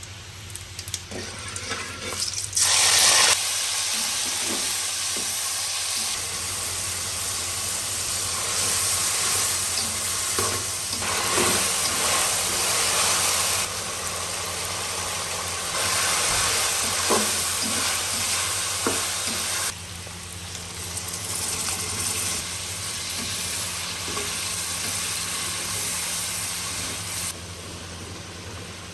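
Food frying and sizzling in hot oil in a pan. A loud surge about three seconds in is typical of an ingredient going into the hot oil, and occasional short clicks and knocks come during stirring. The sizzle dies down near the end, over a steady low hum.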